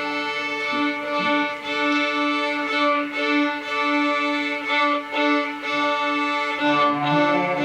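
Student string orchestra playing: violins and other bowed strings over a held note, with chords bowed in a steady pulse about once a second.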